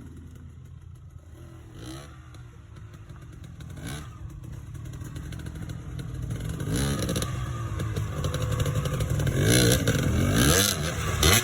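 Dirt bike engine revving as it climbs, growing steadily louder, with throttle surges about seven seconds in and again near the end.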